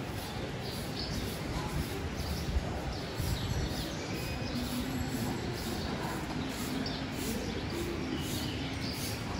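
Birds chirping repeatedly in short calls over steady background street noise.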